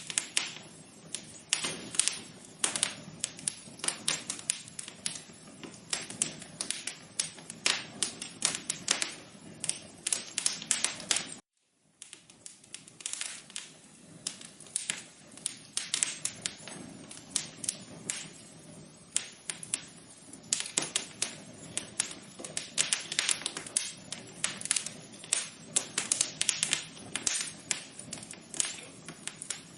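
Wood fire crackling, with a steady stream of irregular sharp pops and snaps over a soft hiss. It cuts out to silence for about half a second roughly eleven and a half seconds in, then picks up again.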